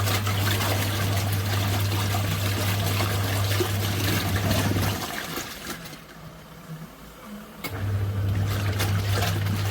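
Mini twin-tub washing machine running: a steady motor hum with water sloshing and trickling. About five seconds in the motor stops for roughly three seconds, leaving only the water sounds, then starts again.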